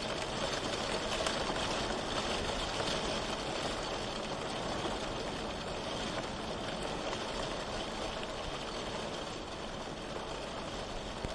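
Steady rain, an even hiss with a low rumble underneath, swelling slightly in the first few seconds.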